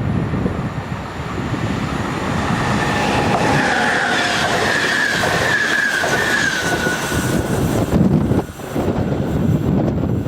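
A train running past with a rumble. From about three seconds in to past seven seconds a high wheel squeal rings out, sliding slightly down in pitch.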